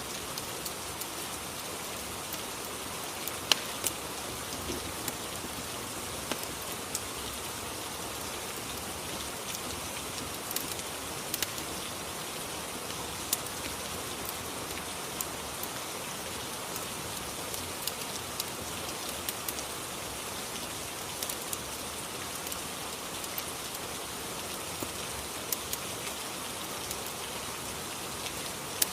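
Steady rain, with scattered sharp ticks and pops over it.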